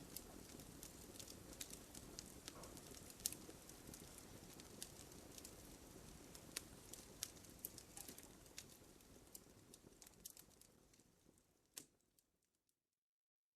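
Wood fire crackling, with irregular sharp pops and snaps over a soft low rustle. It fades away about ten seconds in and drops to dead silence near the end.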